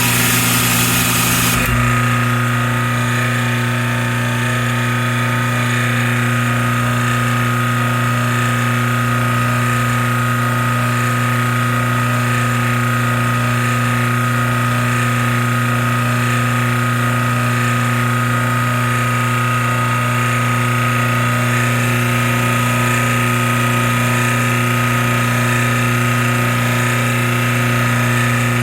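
Wall-mounted pressure washer running steadily with a constant hum, its sound shifting briefly about two seconds in.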